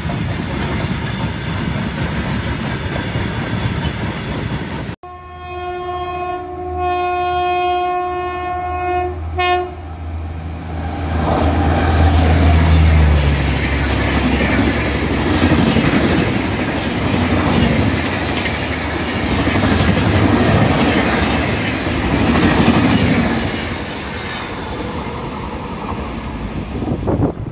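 Freight wagons passing on the rails, then a locomotive horn sounding for about four seconds with a few short breaks. A Duronto Express's passenger coaches then pass at speed with a loud clickety-clack over the rail joints, easing off near the end as the train moves away.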